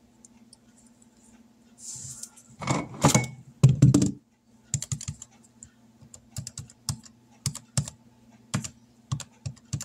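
A few rustling knocks of handling, then a string of sharp, uneven clicks of calculator keys being pressed to add up a running total, over a faint steady hum.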